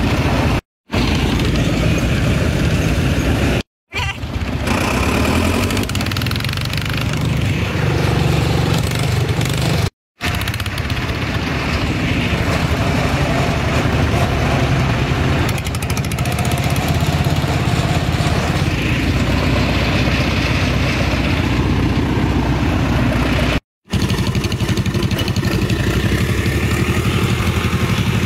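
Tractor engine running steadily during a ride. The sound drops out briefly four times at edits.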